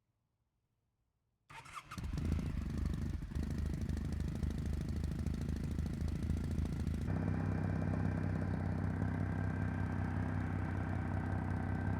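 Kawasaki W800's air-cooled parallel-twin engine starting about a second and a half in, catching almost at once and settling into a steady idle. The idle note steadies about seven seconds in.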